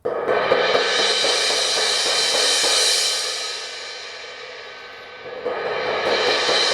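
Zildjian 18" K Custom Hybrid crash cymbal struck over and over with a drumstick, building a bright, continuous wash. The playing eases off about halfway so the cymbal rings down, then picks up again near the end. This is the cymbal's sound after its crack was cut out in a repair.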